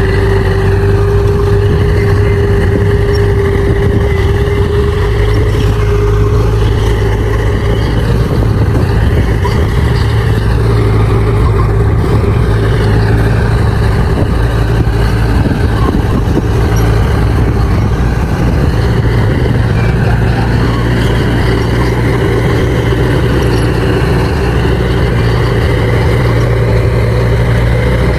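Bulldozer's diesel engine running steadily under load, its pitch dipping and recovering slightly a few times. A steady whine sits over it for the first six seconds or so.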